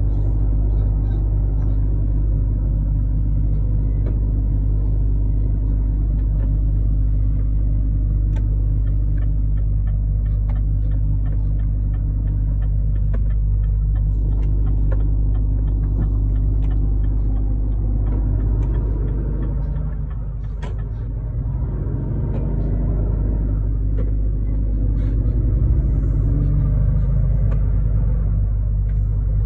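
Truck on the road heard from inside the cab: a steady low engine and road rumble. The engine note dips about two-thirds through, then climbs again.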